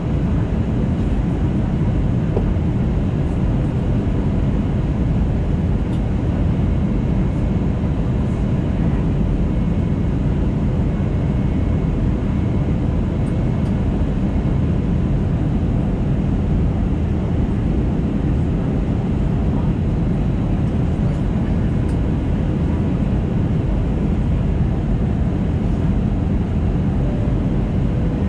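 Inside the cabin of an Airbus A320neo (A320-251N) with CFM LEAP-1A engines during descent: a steady, low rush of airflow and engine noise that does not change.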